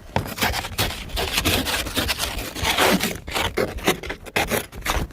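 Small ice scraper rasping over a frozen car window in quick, irregular strokes, making little headway against the ice.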